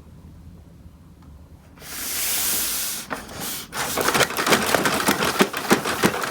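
A miniature toy garbage truck rolling down a cardboard slope: a sudden even rolling hiss about two seconds in, then a fast irregular run of clattering knocks as it rattles along.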